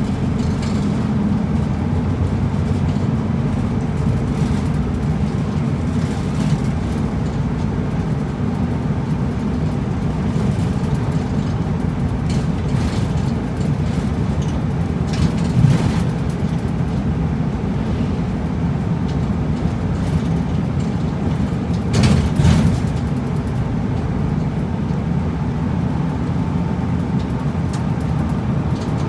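Route bus running, heard inside the cabin: a steady low engine and road rumble. Two short louder knocks, about halfway through and again about three-quarters of the way in, are the loudest moments.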